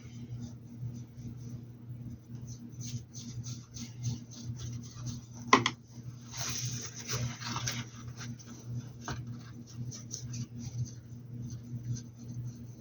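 Paintbrush making quick light dabbing and scratching strokes on a hat's surface, several a second, with one sharp click about five and a half seconds in and a short rustle just after, over a steady low electrical hum.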